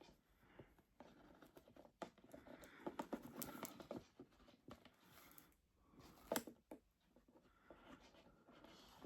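Faint scraping, rustling and clicking from hands and equipment working inside a tarantula enclosure while the spider is being caught, with one sharp click about six seconds in.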